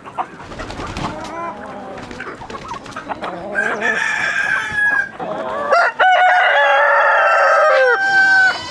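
Chickens clucking, then a rooster crowing in the second half: a long held call that drops in pitch at the end.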